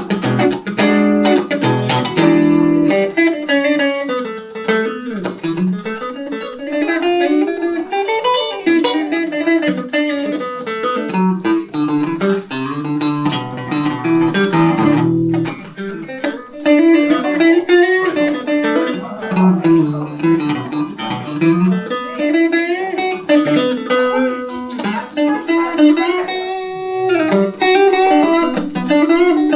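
Electric guitar, a Van Zandt Telecaster through a Roland JC-120 amp, played as an instrumental passage: melodic note lines with pitch glides up and down.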